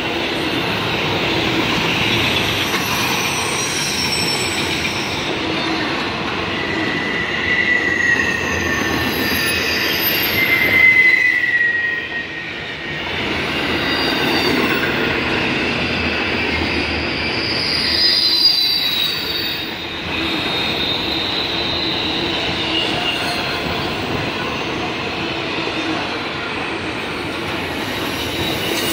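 Double-stack intermodal freight train rolling past: a steady rumble of wheels on rail, with high squealing tones from the wheels that slide up and down in pitch. The sound dips briefly about twelve and twenty seconds in.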